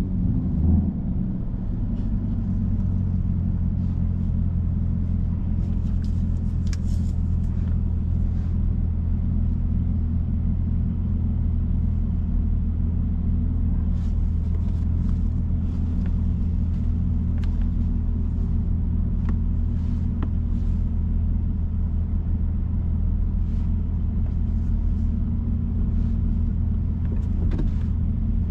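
Chevrolet Camaro ZL1 1LE's supercharged 6.2-litre LT4 V8 running at a steady low engine speed, its low rumble holding one pitch, with scattered faint clicks over it.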